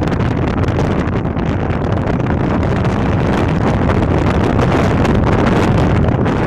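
Passenger train running at speed, heard from an open coach doorway: wind buffeting the microphone over the steady rumble of the coach wheels on the track.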